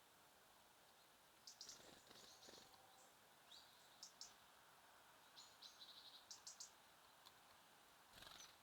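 Faint, short high chirps of small songbirds, coming in scattered clusters with a quick run of calls about six seconds in. A brief rustling burst of noise comes near the end.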